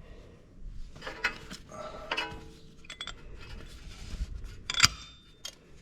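Metal hand tools and brake parts clinking and tapping against each other, several short clinks with a brief metallic ring, the sharpest one nearly five seconds in.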